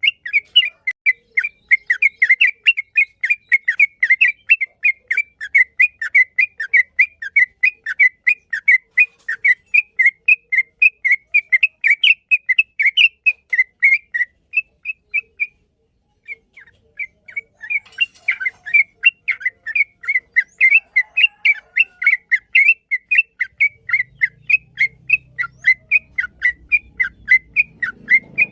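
Yellow-vented bulbul (trucukan) singing a long, fast run of short whistled notes, about four a second. The run breaks off for about two seconds midway, then resumes.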